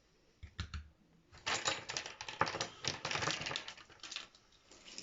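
A dense run of rapid clicks and rattles, like small hard objects being handled, lasting about three seconds, after two short knocks near the start.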